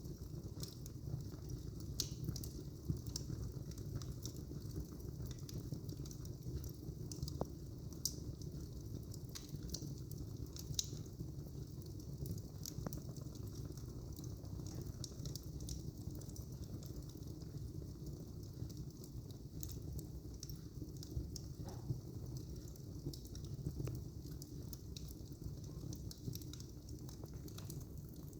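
Fire burning in a fireplace: a steady low rumble of flames with irregular, sharp crackles and pops scattered throughout.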